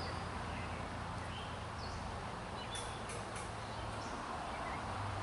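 Birds chirping in short calls over a low steady rumble.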